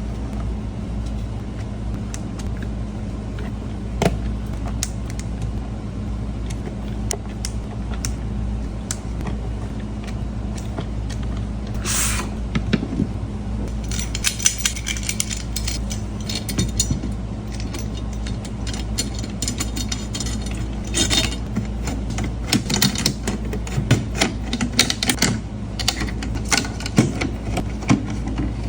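Snare drum hardware being handled while the batter head is changed: scattered small metallic clicks and rattles of the drum key, tension rods and hoop, over a steady low hum. The clicking grows busier about halfway through, after a short scraping noise.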